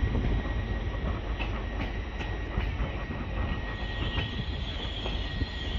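Lumo Class 803 electric train rolling along the platform road: a low rumble with wheels clicking over rail joints and a thin, steady squeal, joined about four seconds in by a higher wheel squeal.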